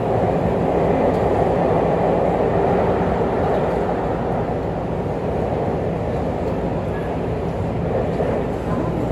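Tobu 50000 series electric train heard from inside the car, running through a tunnel: a steady rumble of wheels on rail. It eases slightly as the train slows on its approach to the station.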